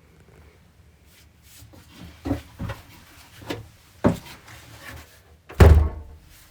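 A series of about five dull knocks and thumps at uneven intervals, the loudest near the end.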